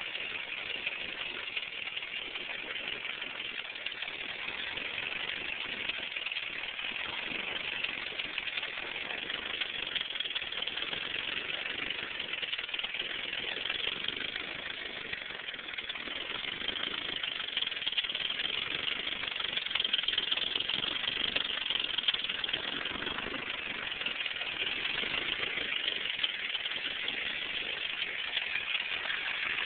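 Turbocharged Honda LS/VTEC four-cylinder engine idling, with a steady ticking over the idle.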